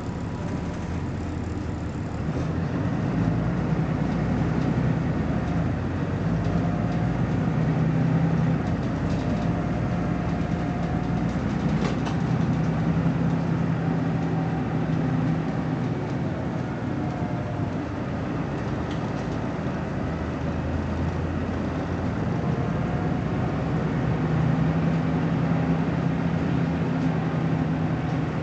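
BMC Belde 220-SLF city bus's diesel engine running under load, its low drone swelling and easing in several long waves, with a faint whine gliding in pitch above it.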